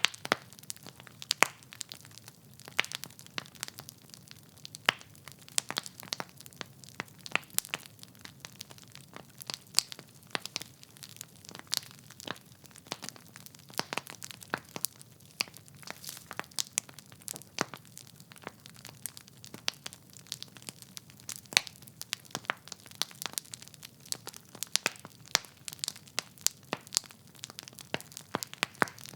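Wood fire in a fireplace crackling: irregular sharp pops and snaps from the burning logs, several a second, over a soft low rumble of flame.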